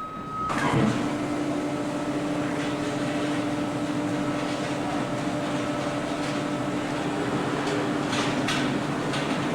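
A short beep, then about half a second in a baler's machinery starts and runs with a steady hum.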